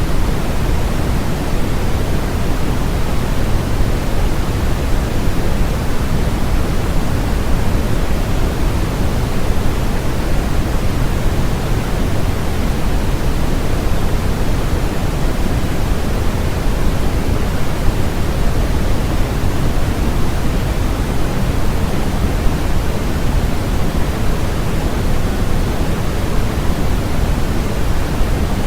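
Steady synthetic noise from a sleep and relaxation track sold as white noise: an even, unchanging hiss, heavier in the low end and softer in the highs, closer to pink noise.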